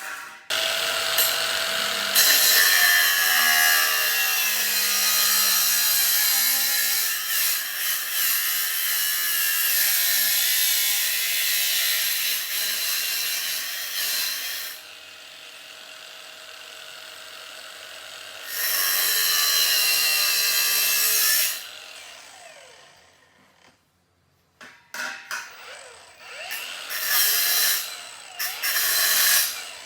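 A power tool running under load in two long passes, the first about fourteen seconds and the second about three, with a quieter stretch between them; scattered knocks and clicks follow near the end.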